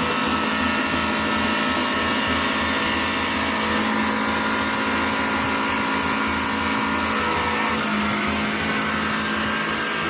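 Heavy vehicle's engine running at steady high revs: a constant mechanical drone made of many held tones, with no change in level.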